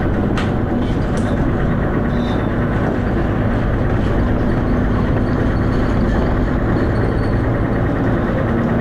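Dennis Arrow double-decker bus running along, a steady drone of engine and road noise with a faint low hum. A single sharp click sounds about half a second in.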